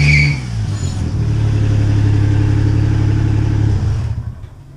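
A small hatchback's engine running at a steady pitch as the car drives past, fading away near the end. A high screech cuts off just after the start.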